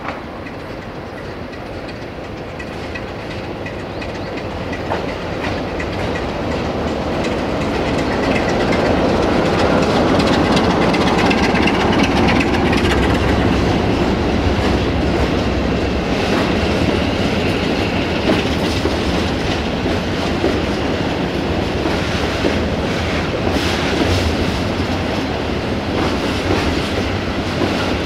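Romanian 060-DA (ST43) Sulzer diesel-electric locomotive and its train of tank wagons rolling past, with the steady low hum of the engine and wheels clacking over rail joints. It grows louder over the first nine seconds or so, then holds steady as the wagons go by.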